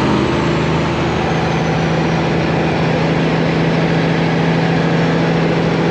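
Kenworth truck's Detroit Diesel engine running at steady revs under load, one even drone with no gear change or rise in pitch.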